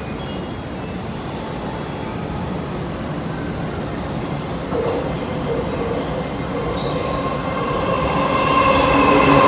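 An electric train approaching and running through a station platform without stopping, its rumble growing steadily louder. About halfway in, steady tones come in over the rumble and build toward the end.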